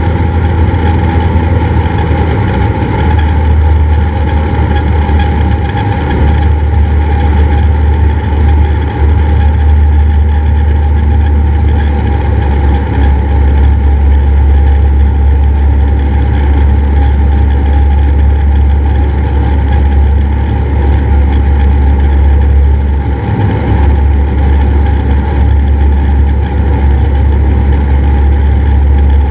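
Cessna 172's piston engine and propeller running at a steady drone.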